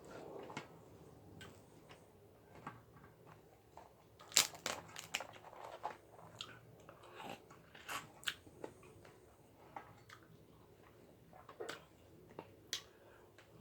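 King crab legs being eaten: shells cracking and crunching, with chewing between the cracks. A cluster of sharp cracks comes about four seconds in, with more scattered through the rest.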